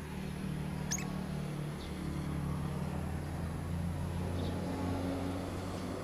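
A vehicle engine running with a steady low hum, and a lovebird giving a brief high squeak about a second in, with fainter squeaks later.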